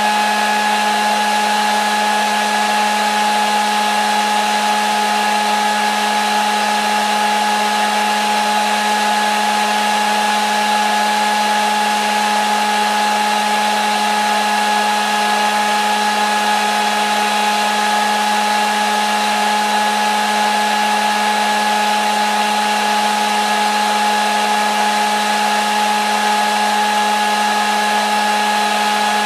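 Electric hair dryer running continuously on one setting: a steady rush of blown air with a constant motor hum and whine that does not change. It is played as white noise to soothe a baby to sleep.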